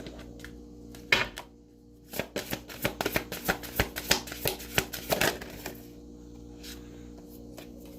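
A deck of oracle cards being shuffled by hand: one sharp snap about a second in, then a quick run of card clicks for about three and a half seconds.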